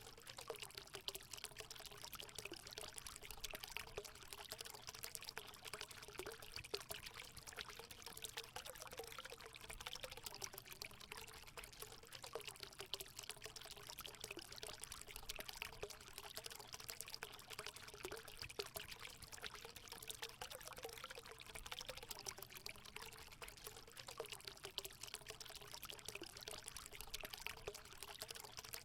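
Water running and splashing steadily into a hot spring pool, a continuous pouring trickle.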